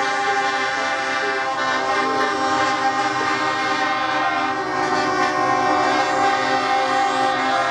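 Truck air horns blaring together, several steady tones overlapping into a held chord without a break.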